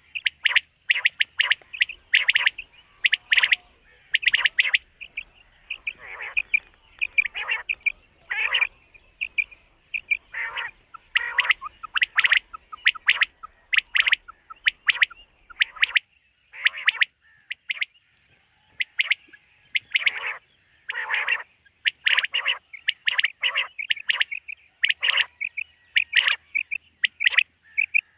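Common quail calling over and over: short, sharp notes in quick clusters with brief pauses between them.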